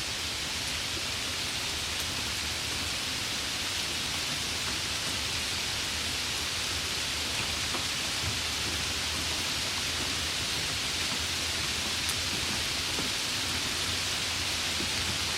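Steady, even rain falling, a continuous hiss with a few faint drop ticks.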